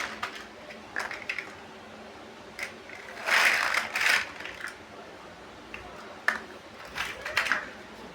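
Plastic building bricks clicking and clattering as they are handled and snapped together: separate sharp clicks, and a longer clatter of pieces about three seconds in.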